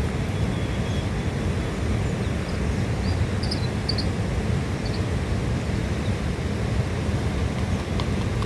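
Steady low outdoor rumble, like wind or rushing water, with a few faint short high chirps about three to four seconds in.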